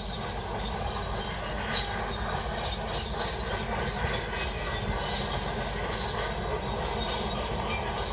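Shantui D17 crawler bulldozer at work: its steel tracks clanking and squealing over the steady running of its diesel engine, a dense continuous rattle of small metallic clanks.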